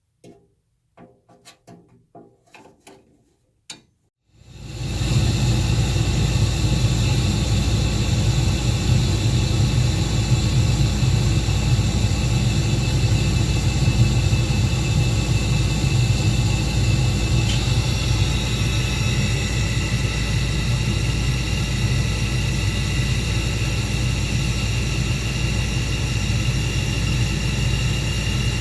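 A few light clicks, then about four seconds in a Carrier 58SSB gas furnace's draft inducer motor starts up and runs steadily, a low rumble with several steady high whining tones. Another high tone joins partway through.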